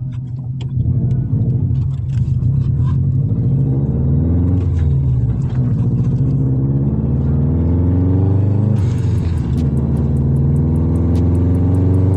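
Straight-piped Subaru Impreza WRX's turbocharged flat-four engine driving, its exhaust rumble rising and falling in pitch several times as the car accelerates and shifts.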